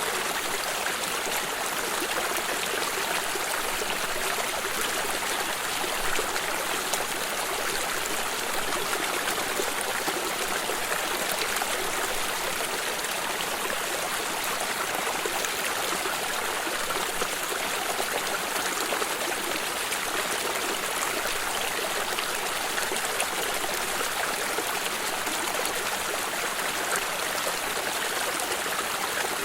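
A stream of water flowing and trickling steadily, an even rushing babble with no breaks.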